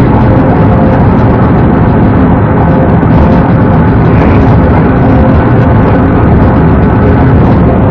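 Police car driving at speed in a pursuit: a loud, steady rush of engine, tyre and wind noise picked up by its dashcam, with no change through the stretch.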